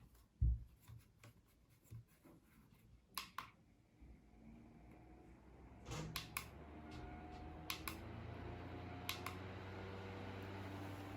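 Mini USB fan being handled with clicks and a knock, then switched on: its small motor hums and the air rushes in a steady hiss that gets louder in steps, after clicks, about six and eight seconds in, as it is set to higher speeds.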